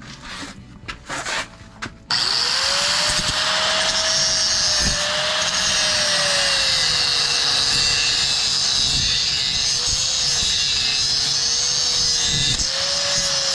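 A few small metal clinks, then about two seconds in an angle grinder spins up and runs steadily while cutting mild steel rod, its pitch dipping and wavering as the wheel is loaded.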